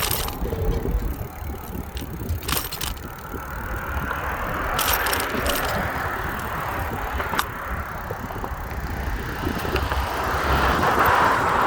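Riding a bicycle along a road, with wind rumbling on the microphone and the hiss of passing car traffic swelling and fading, once about five seconds in and again near the end. A few sharp clicks and rattles from the bike.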